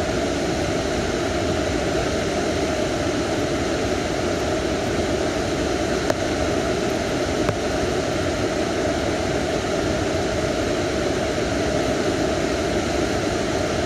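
Steady rushing water, an even roar without a break, with a couple of faint clicks near the middle.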